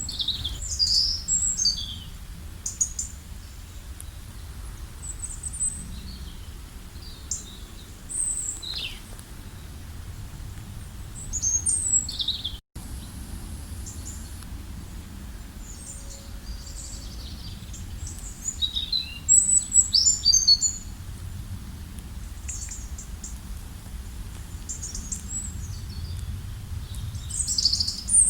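Several small birds chirping and singing in short, high-pitched phrases scattered throughout, over a low steady rumble. The sound drops out for an instant about halfway through.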